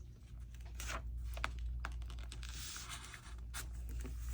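Paper being handled and pressed into place on a work table: a few light taps and clicks, then a soft rustling rub about halfway through.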